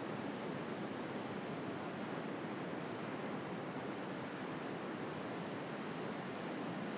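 Ocean surf washing in a steady, even rush, with one faint high click about six seconds in.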